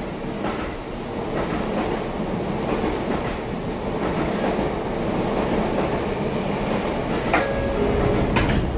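Sotetsu 8000 series electric train running, heard from inside the car: a steady rumble of wheels and running gear that grows louder as the train gathers speed. Near the end there are a couple of sharp clicks from the wheels passing rail joints.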